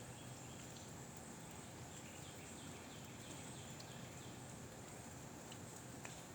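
Faint outdoor ambience: a steady, even hiss, with a quick run of about six short high chirps a couple of seconds in and a single sharp click near the end.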